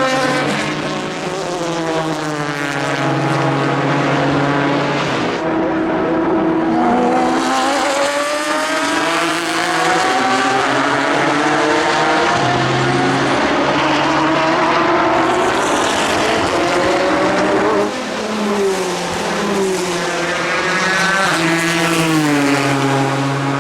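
Ford GT GTE race cars' twin-turbocharged V6 engines running at racing speed past the track, the engine note rising and falling as the cars pass and shift gears, over several passes.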